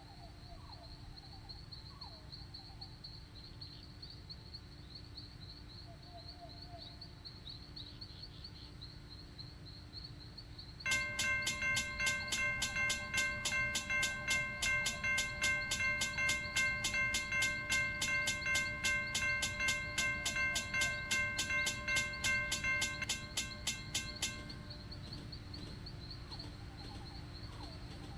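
Birds chirping, then about 11 seconds in a railroad crossing bell starts ringing rapidly, about three strikes a second, and stops after some 13 seconds, leaving the birds again.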